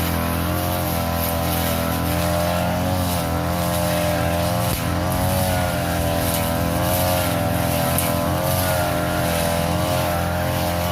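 Petrol brush cutter engine running at high speed as it cuts overgrown grass. Its pitch wavers up and down under the changing load of the cut.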